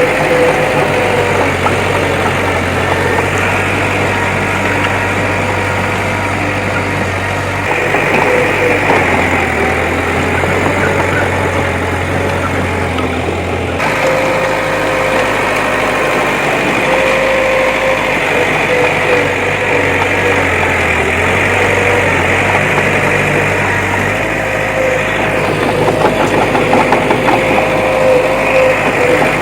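Bulldozer's diesel engine running steadily, with a sudden change in the sound about halfway through.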